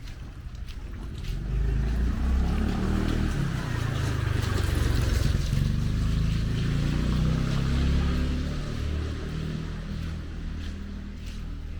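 A motor vehicle passes close by on a wet street. Its engine rumble and the hiss of its tyres on the wet road build up about a second in and fade toward the end.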